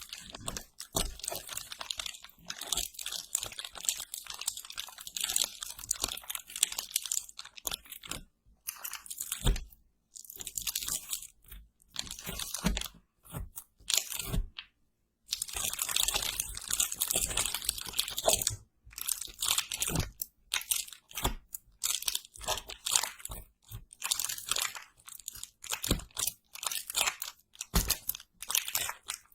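ASMR crunching and crackling sounds, in bursts of a second or more separated by short silent gaps, with scattered sharp clicks.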